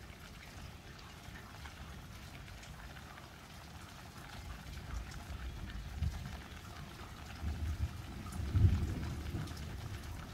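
Light rain falling steadily, with low irregular rumbles swelling in the second half and loudest about eight and a half seconds in.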